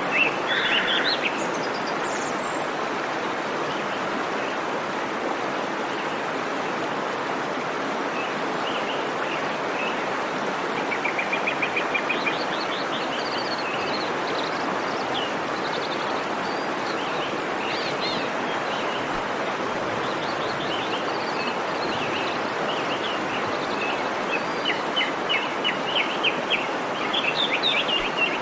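Steady rush of a waterfall, with birds chirping and trilling over it; bursts of rapid trills come about eleven seconds in and again near the end.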